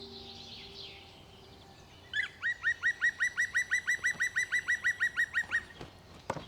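A bird calling a fast, even run of about twenty clear, ringing notes, roughly six a second, lasting about three and a half seconds.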